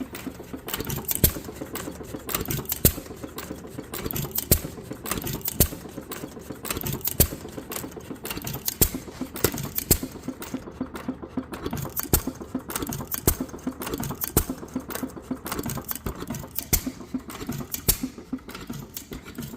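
York 1-1/2 HP hit-and-miss engine running: a sharp firing stroke about every second and a half, with rapid mechanical clicking between firings as it coasts.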